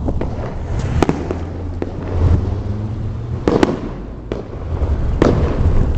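Fireworks going off: three sharp bangs, about a second in, past the middle and near the end, over a continuous low rumble of wind and car noise.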